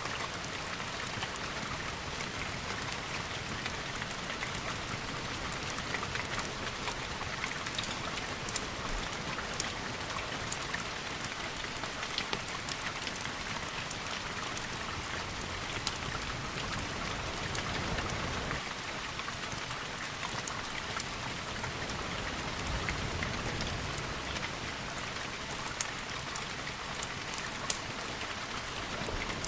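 Steady rain with many small, sharp drop ticks scattered through it. Two soft low swells come in the second half.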